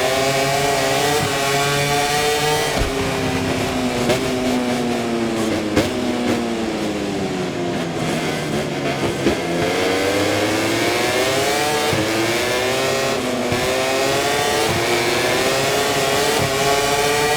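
Aprilia RS-GP V4 MotoGP engine heard from the bike's onboard camera at race pace. The engine note drops over several seconds, with a few sharp cracks as the rider downshifts braking into a corner, then climbs steadily as the bike accelerates out.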